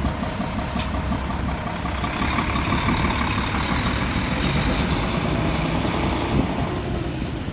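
Mitsubishi Fuso Aerostar city bus's diesel engine idling with a steady low clatter. The noise swells louder and brighter through the middle, then eases near the end.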